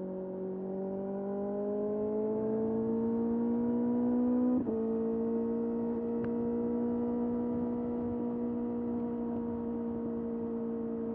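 Kawasaki ZX-6R's 636 cc inline-four engine pulling under throttle, its pitch rising steadily. About four and a half seconds in the note breaks briefly, then the engine holds a steady cruise.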